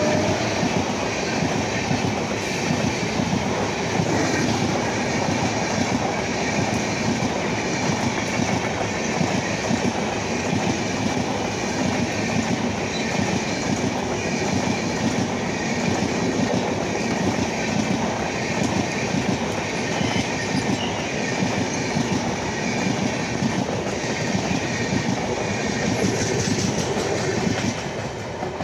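Passenger coaches of an Indian Railways express train rolling past at speed, with a steady rolling noise of wheels on the rails. The noise falls away near the end as the last coach passes.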